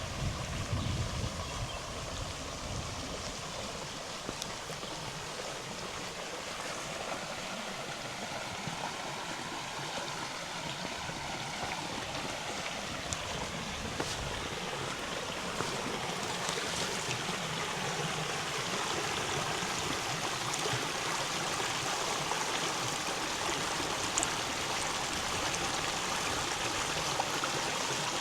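River water running and gurgling in a steady rush that grows slowly louder, with a brief low rumble of wind on the microphone at the start.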